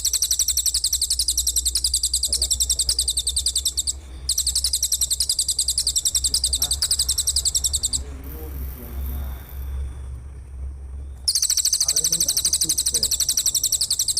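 A singing insect's high, rapidly pulsed buzzing trill, delivered in long unbroken bouts: it breaks off briefly about four seconds in, falls silent for about three seconds from eight seconds in, then starts again.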